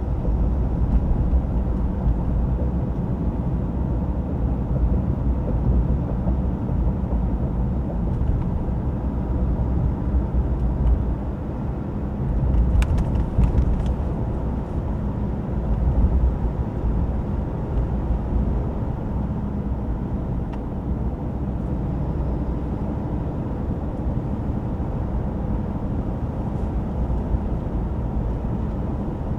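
A Ram 2500's high-output Cummins 6.7-litre inline-six turbodiesel and road noise while driving, a steady low rumble. A brief cluster of faint clicks about halfway through.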